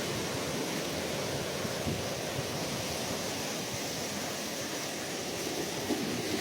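Ocean surf: a steady wash of waves with no single breaker standing out.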